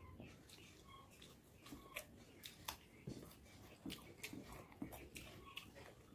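Faint close-up eating sounds: a person chewing a mouthful of rice, with many small, sharp wet mouth clicks and smacks at irregular intervals.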